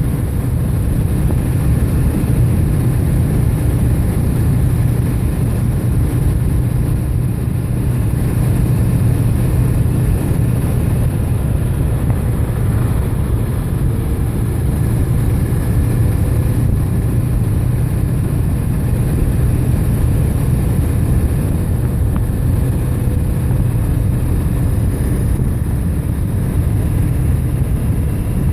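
Steady low road rumble of a moving bike ride, unchanging throughout.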